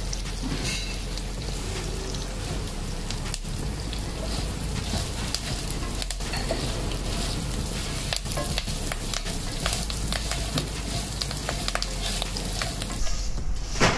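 A tempering of cashews, dried and green chillies, dals, mustard seeds and curry leaves sizzling in hot ghee in a non-stick pan, stirred and scraped with a slotted spatula. A steady sizzle, full of small crackles.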